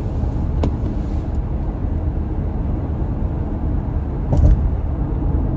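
Car driving on a highway, heard from inside the cabin: a steady low rumble of engine and tyres on the road. A short click comes under a second in, and a louder thud, like the car going over a bump, about four and a half seconds in.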